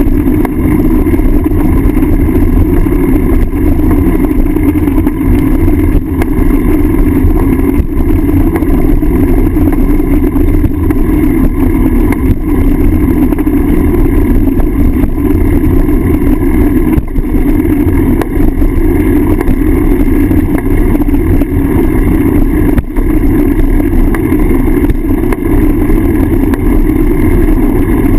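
Loud, steady rumble of wind and road vibration picked up by a handlebar-mounted GoPro on a moving bicycle.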